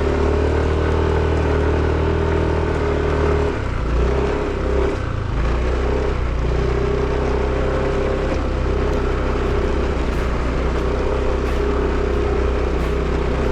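Small moped engine running steadily under way, easing off briefly about four seconds in and then picking up again.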